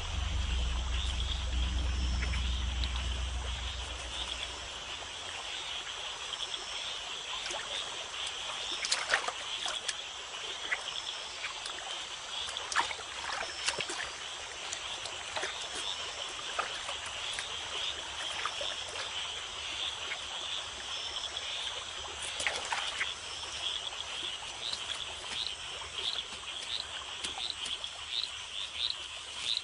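Night-time tropical forest chorus: frogs calling over a steady high insect buzz, with scattered sharp clicks and calls. Near the end a frog starts a run of short chirps, about two a second.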